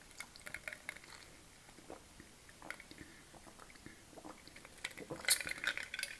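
Faint, close-up chewing and wet mouth sounds of a person eating, with small clicks scattered throughout and a louder burst of noise about five seconds in.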